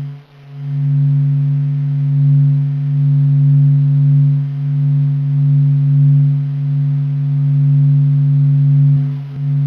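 NASA's sonification of the sun's vibrations: a steady low humming drone of several held tones that swells gently. It dips briefly just after the start and again near the end.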